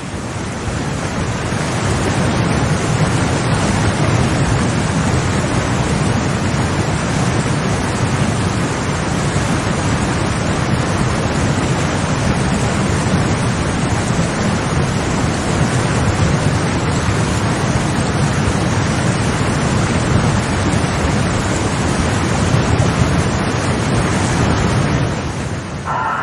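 A steady, loud rush of flowing water, like heavy rain or surf. It swells up over the first couple of seconds and eases slightly near the end.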